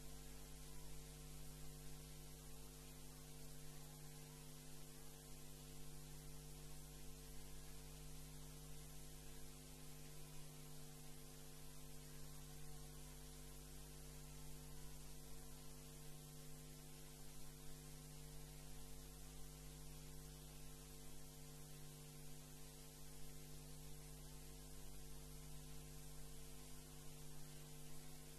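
Faint, steady electrical mains hum with a low buzz and light hiss, unchanging throughout.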